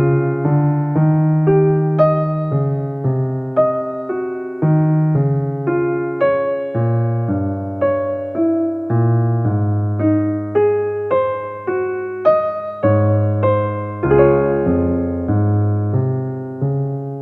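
Soft background keyboard music in a piano tone: a steady melody of struck notes, about two a second, over a low bass line, ending on a held chord that fades away.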